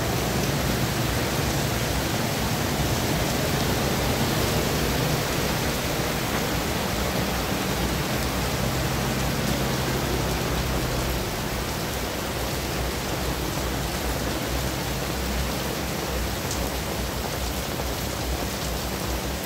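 Heavy tropical rain falling on a wet road, a steady hiss, mixed with passing traffic on the wet tarmac; a low engine hum from a passing container truck and motorbikes fades out about halfway through.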